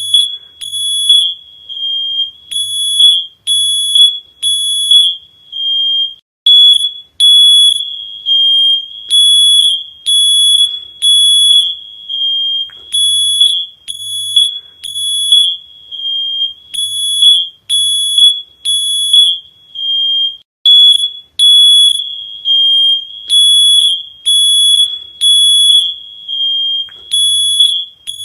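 Smoke alarm beeping: a loud, shrill high-pitched tone that sounds in quick repeated beeps with short pauses between runs.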